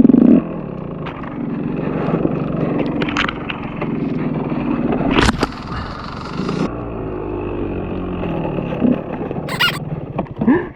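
Two-stroke KTM EXC 125 enduro motorcycle engine running under throttle while riding through snow-covered branches, with a couple of sharp knocks, one about halfway through and one near the end.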